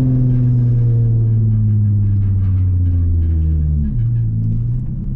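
Car engine and exhaust running under way through a custom titanium single-exit exhaust with high-flow cats and a titanium Y-pipe, a deep note whose pitch falls steadily as the revs drop. About four seconds in the note changes abruptly and settles at a different pitch.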